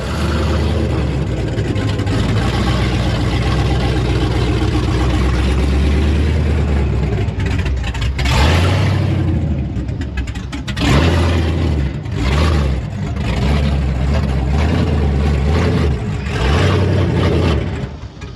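A custom truck's engine running loud and being revved several times, with the revs surging and falling back, before it drops off near the end.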